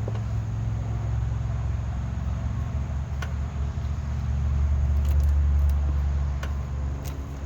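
A motor vehicle engine running steadily at idle, a low hum that swells briefly past the middle, with a few light clicks.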